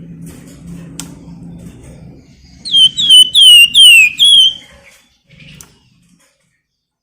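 Flamboyan songbird whistling: a quick run of about five loud notes, each sliding downward, starting nearly three seconds in.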